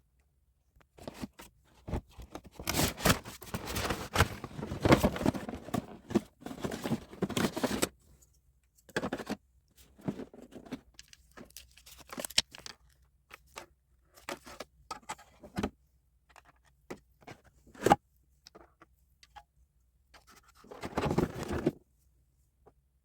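Objects being handled close up: irregular rustling and scraping with sharp clicks, heaviest in the first several seconds, then scattered clicks and a short burst of rustling near the end.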